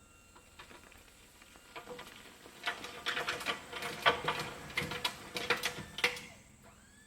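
Loose crushed stone clattering: a dense run of sharp, irregular clicks and knocks that builds over about a second, goes on for a few seconds and stops fairly suddenly near the end.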